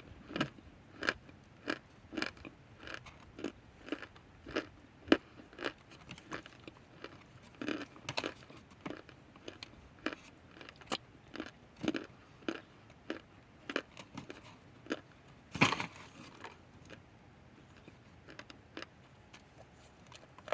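Crunchy bites and chewing of hard cornstarch chunks, a run of sharp irregular crunches close to the mouth. One of the loudest crunches comes near the three-quarter mark, followed by a few seconds of fewer, fainter crunches.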